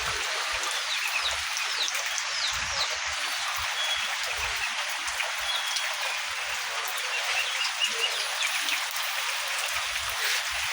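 Heavy rain falling steadily, an even dense hiss, with scattered short high chirps through it.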